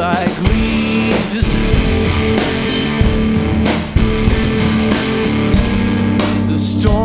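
A blues-rock duo plays an instrumental stretch of a song: electric guitar chords over a drum kit, with repeated drum and cymbal hits. Singing comes in briefly at the very start and again at the end.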